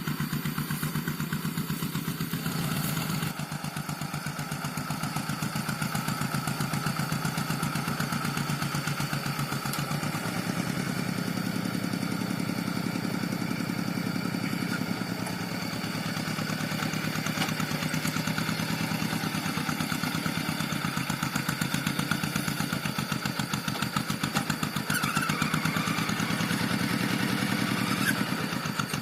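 Rice-field tractor engine running steadily with an even, rapid firing beat, pulling a plough through dry paddy. The engine note shifts slightly a few seconds in and again about ten seconds in.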